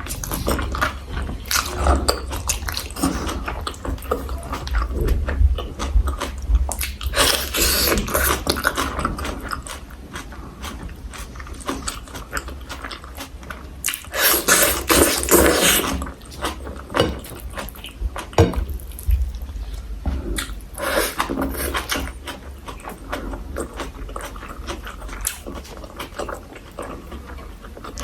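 A person eating close to the microphone: chewing and biting braised pork, kimchi, pickled garlic, vegetables and rice, with many small clicks and two louder noisy stretches. A steady low hum runs underneath.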